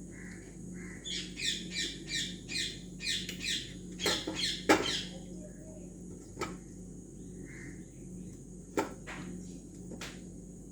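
A bird squawking in a quick run of harsh, repeated calls, a few louder ones about four to five seconds in, then a few isolated sharp clicks over a faint steady low hum.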